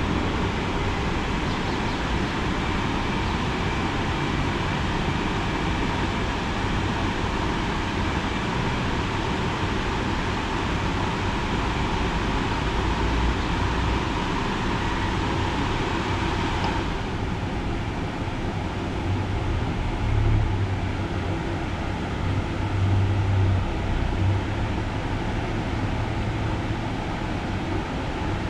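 Automatic car wash machinery running with a steady rush of noise and a faint whine. About 17 seconds in the hiss and whine drop away, leaving a lower rumble that swells a few times.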